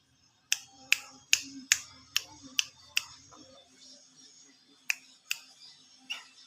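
A run of sharp clicks, about two and a half a second, then three more spaced-out clicks near the end.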